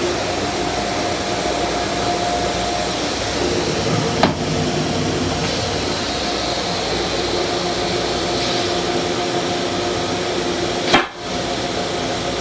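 Steady running noise of an M7 electric railcar heard from inside its restroom, with a steady whine over the rumble. Two sharp knocks cut through, about 4 seconds in and near the end, the second the louder.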